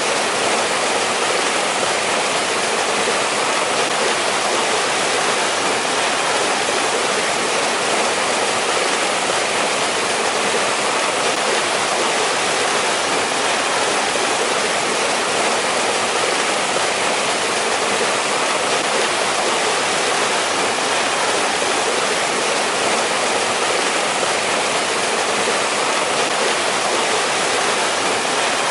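Mountain stream rushing over rocks in a winter valley, a steady full rush of water without a break.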